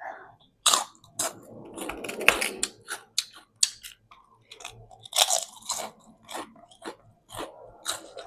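Someone eating spicy noodles close to the microphone: wet chewing and mouth smacks with a string of short, sharp crunches.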